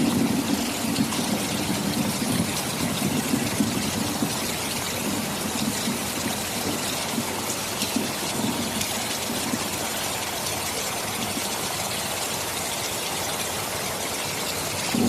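Steady heavy rain hissing, with a low rumble of thunder under it in the first half that fades away by about the middle.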